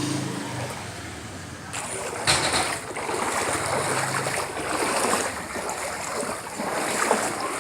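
Floodwater rushing and splashing, with a sudden louder splash a little over two seconds in and a small engine running faintly underneath at times.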